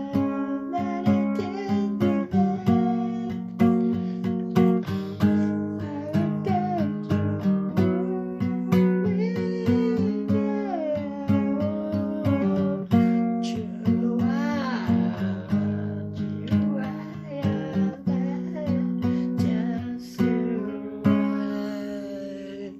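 Acoustic guitar music, plucked and strummed notes over sustained chords.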